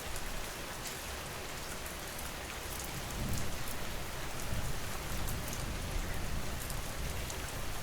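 Steady rain falling, an even hiss with scattered drop ticks. A low rumble swells up about three seconds in and carries on.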